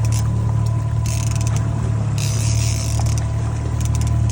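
Boat's inboard or outboard engine running steadily at trolling speed, with a fishing reel being cranked in two short spells, about a second in and again around two seconds in, while a hooked fish is reeled toward the boat.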